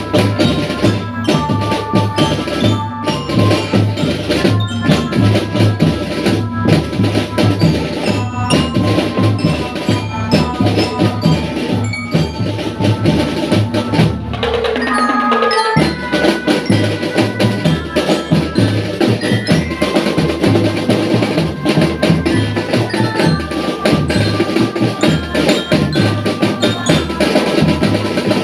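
School marching drum band playing: drums beating a steady rhythm under a bell-lyra (glockenspiel) melody. The drumming breaks off briefly about halfway through, then picks up again.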